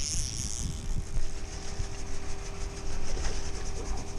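Steady low rumble with a constant motor hum and a faint pulsing high hiss, typical of a fishing boat's motor running under wind noise on the microphone.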